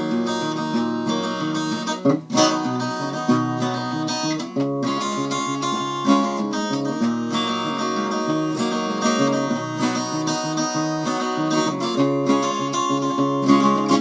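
Acoustic guitar introduction: a guitar strummed and picked in a steady rhythm before the singing begins.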